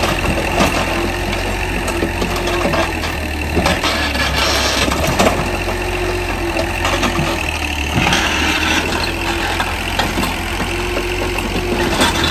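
An engine running steadily at idle, with a constant low hum and scattered clicks and knocks.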